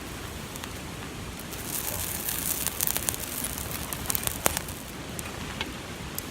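Campfire burning high on dry dead leaves, crackling with sharp pops over a steady hiss. The pops come thickest in the middle.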